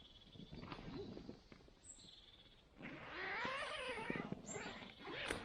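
A pet's drawn-out vocal cry about three seconds in, rising and then falling in pitch, with shorter soft vocal sounds before it.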